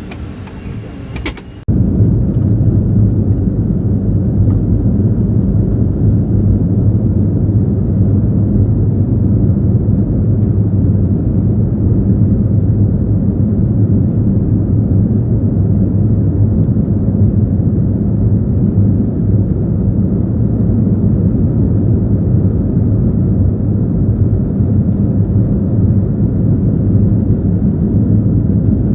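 Steady, loud rumbling roar of an airliner's engines heard from inside the cabin, starting abruptly about two seconds in.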